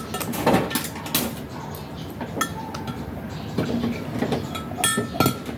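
Dishes and utensils clinking and knocking: a string of scattered sharp knocks and short ringing clinks.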